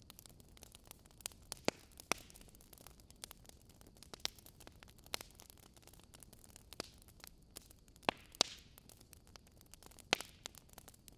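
Fire crackling: irregular sharp pops and snaps over a soft, steady hiss.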